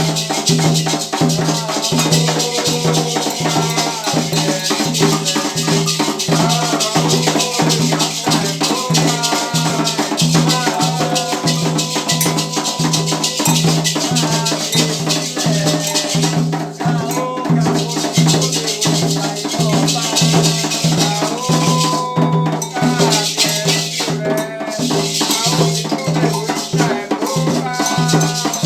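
Candomblé ceremonial music: singing over drums, with shaken rattles keeping a dense, steady beat.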